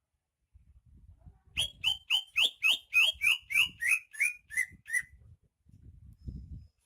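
Cucak ijo (greater green leafbird) singing a quick run of about a dozen down-slurred whistled notes, about three a second, each a little lower than the last.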